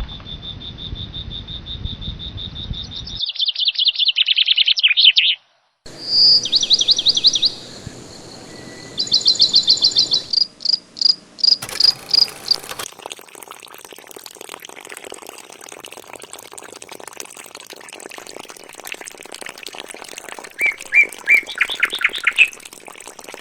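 High chirps and trills like birds and insects, in several short spliced segments with abrupt cuts: a pulsing steady high note, then trills and quick chirp runs, and later a few repeated chirps near the end.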